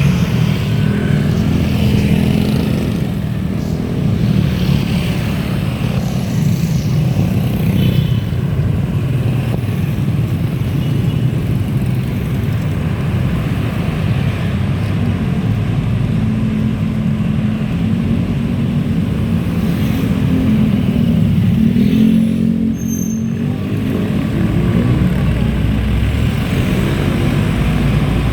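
Steady, loud low rumble of riding along: vehicle and road noise, with a brief dip about three quarters of the way through.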